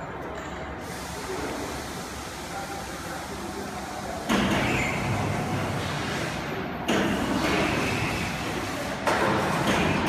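Gantry CNC plate drilling and cutting machine at work: a steady, noisy machine sound that suddenly steps louder three times, about four, seven and nine seconds in.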